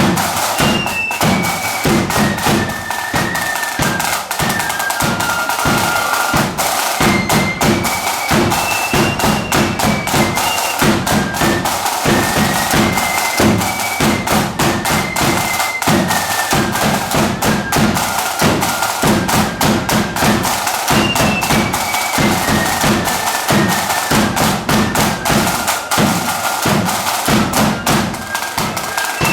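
Marching flute band playing a tune: a high melody moves in steps over snare and bass drums beating steadily throughout.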